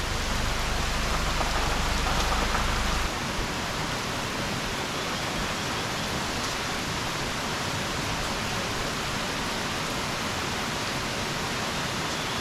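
Heavy rain pouring steadily, a dense even hiss. A low rumble under it stops abruptly about three seconds in.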